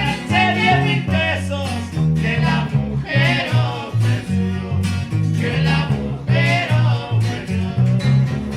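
Norteño band playing live: plucked string instruments and a bass line carry the rhythm under a melody with vibrato on top.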